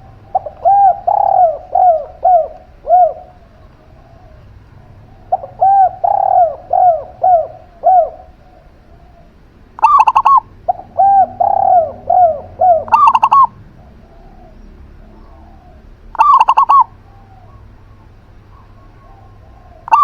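A zebra dove and a spotted dove cooing. There are three runs of quick, falling coo notes in the first thirteen seconds, and short, louder, higher calls about ten, thirteen and sixteen seconds in and again at the very end.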